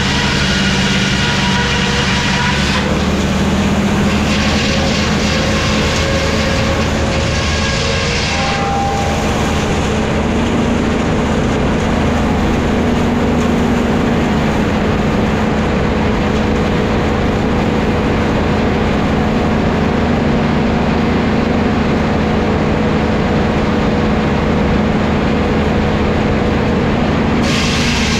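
Engine-driven vintage wood-milling machinery running steadily. About three seconds in the sound thickens into a dense, hissing noise, as timber is cut, and it drops back to the plainer engine hum near the end.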